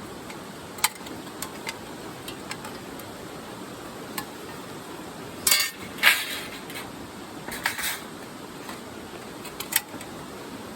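Metal parts clinking and knocking: a few sharp single clicks, with louder rattling clusters a little past the middle and again shortly after, over a steady background hiss.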